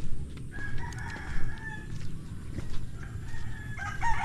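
Rooster crowing: one long crow about half a second in, and another starting near the end, over a steady low rumble.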